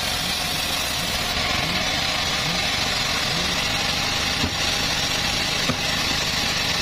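Engine of a home-built bandsaw mill running steadily, with two short knocks a little past the middle.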